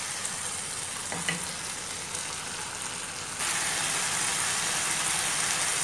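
Chickpeas frying in masala in a pan, a steady sizzle, with a few light scrapes of a wooden spatula stirring them early on. The sizzling gets abruptly louder about three and a half seconds in.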